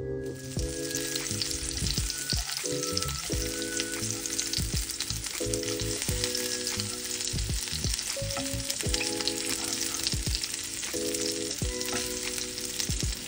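Breaded prawns shallow-frying in hot oil in a frying pan, a steady sizzle, while a spatula turns them in the pan.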